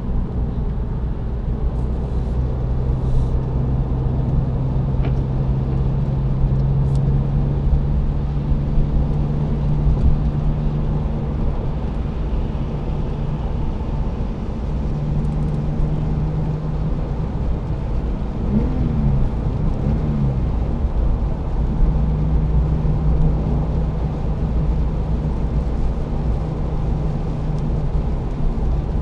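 Porsche 911 Carrera 2's flat-six engine running steadily over a heavy low rumble of road and tyre noise, its pitch settling at a few different levels. About two-thirds through, the engine note rises and falls twice in quick succession.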